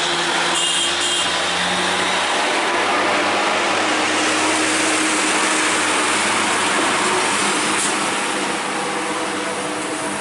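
A motor vehicle engine running steadily under a loud wash of road noise, easing a little near the end.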